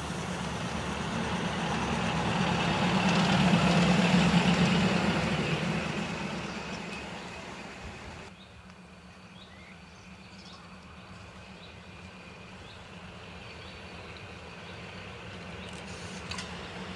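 A museum railway train passing close by, its running noise swelling to a peak about four seconds in and fading away. About eight seconds in the sound drops suddenly to a quieter steady hum with faint short chirps.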